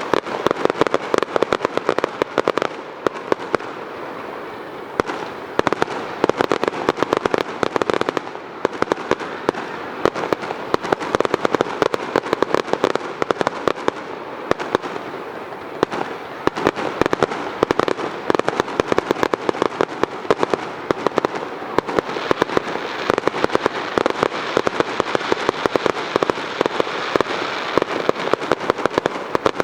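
Fireworks display: a dense, continuous crackle of many small pops and bangs, with frequent louder reports all through.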